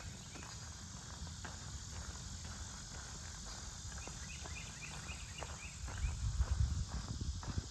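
A hiker's footsteps crunching along a woodland trail, with a steady insect drone in the background. About four seconds in, a quick run of short high chirps sounds, and near the end a low rumble rises.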